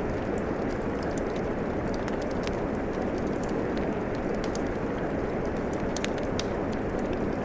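Steady rainfall mixed with a crackling wood fire: a constant, even rush of rain with short, sharp crackles and pops scattered irregularly over it.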